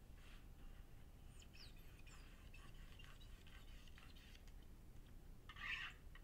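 Near-quiet outdoor air with faint, scattered bird chirps and twitters, and a louder, brief chirping call near the end.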